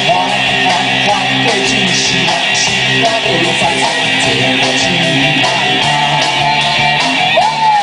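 Live band playing rock music led by guitar, with a held, bending melody line over it.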